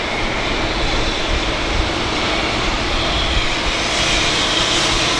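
Freight train running past, a steady rumble and rush of wheels on rails that grows a little louder near the end.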